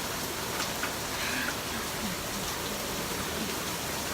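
Rain falling steadily in a continuous downpour, with a couple of faint ticks about a second in.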